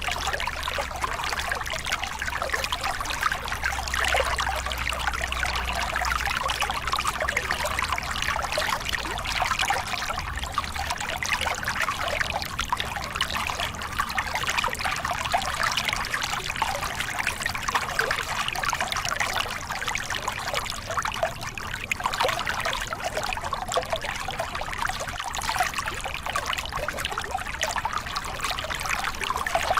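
Small cascade on a forest river: water spilling and splashing over rocks in a steady, even rush.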